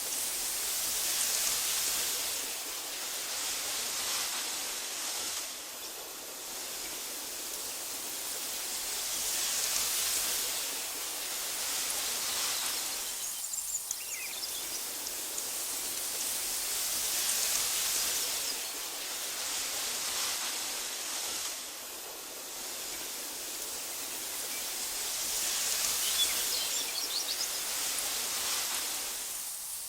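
Wind blowing through tall meadow grass, a steady soft hiss that swells and eases in slow gusts about every eight seconds. A few faint high chirps come near the middle and near the end.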